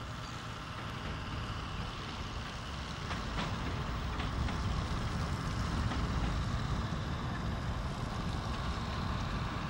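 Narrow-gauge Bord na Móna bog train running, a steady diesel and wheel rumble that grows slowly louder as it approaches, with a few faint clicks a few seconds in.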